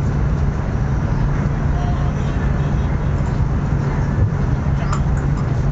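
Steady running noise inside the carriage of a CRH380A high-speed train: a low rumble with a constant hum underneath.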